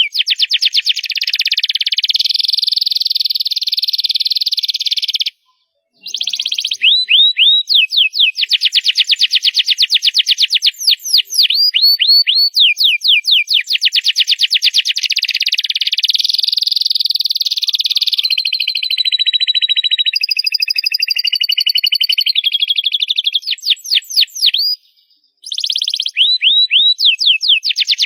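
Canary singing loudly: long, rapid trills and runs of quick downward-sweeping notes, broken by two brief pauses, about five seconds in and about twenty-five seconds in.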